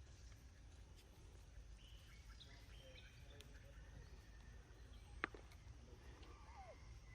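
Faint outdoor ambience with a low rumble and a few faint bird chirps. A single sharp click comes about five seconds in, and a short falling animal call follows near the end.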